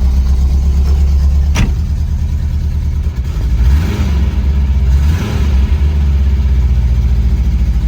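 A 1975 Porsche 914's air-cooled flat-four idling as it warms up after a cold start, revved briefly twice near the middle. A sharp click sounds about a second and a half in.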